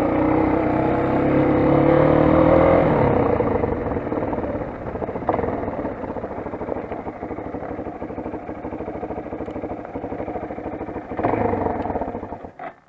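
Motoland XR 250 enduro motorcycle's single-cylinder engine running. It is loud for the first three seconds, then settles to a lower, pulsing run, picks up briefly near the end, and cuts off suddenly.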